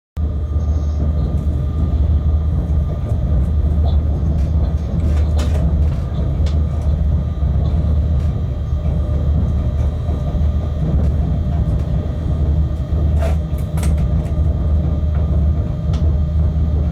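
Inside a freight locomotive's cab on the move: a steady, heavy low rumble of the running train, with scattered sharp clicks and knocks from the track. The sound cuts in abruptly at the very start.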